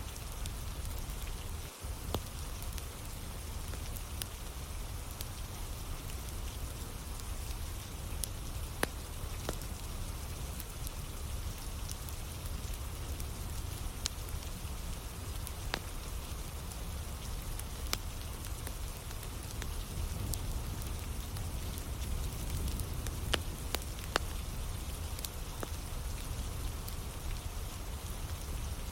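Steady rain on a surface mixed with a wood fire burning, with scattered sharp crackles and pops from the burning firewood. The sound briefly drops out about two seconds in.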